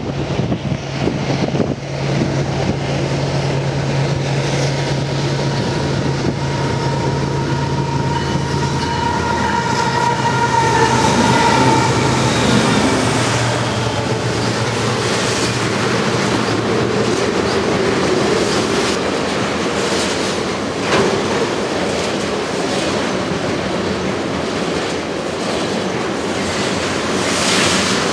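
Diesel-hauled train passing on the tracks, with steady locomotive engine hum for the first several seconds, then continuous wheel and car noise clacking over the rails. A high whine rises briefly about ten seconds in.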